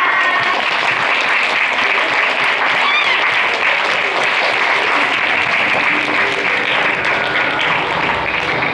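Audience applauding steadily, with one short whoop about three seconds in; music starts faintly near the end.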